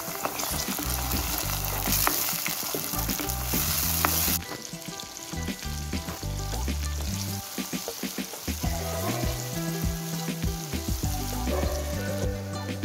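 Diced onion and tomato sizzling and crackling in hot oil in a pot. The sizzle is loudest for about the first four seconds, then drops to a quieter bubbling fry.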